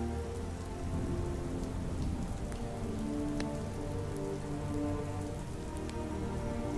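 Steady soft rain with a slow ambient music pad of long held notes underneath, and a few faint sharp ticks.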